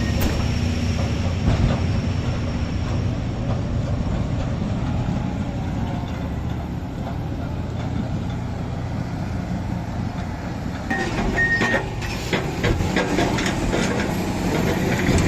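Heavy mining machinery running, a steady low diesel engine drone, with a short beep and a few knocks about eleven seconds in.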